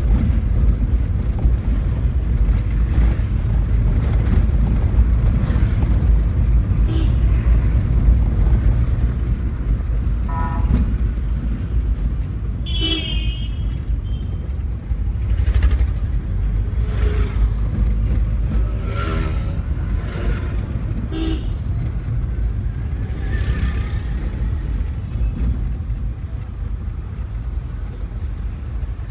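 Car being driven, with a steady low engine and road rumble, and a few short vehicle-horn toots, the clearest about 13 and 19 seconds in.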